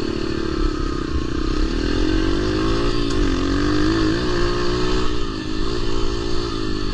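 Dirt bike engine under way, its pitch rising and falling as the throttle is worked on and off.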